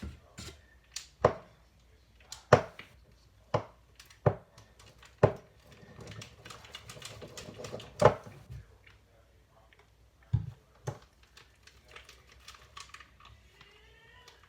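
Butter slime being squished and poked by hand: a string of sharp clicks and pops, roughly one a second, with softer crackling in the middle.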